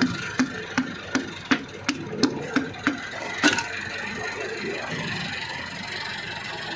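A run of about ten light, sharp taps, roughly three a second, that stop about three and a half seconds in. Under them a steady engine-like running noise goes on.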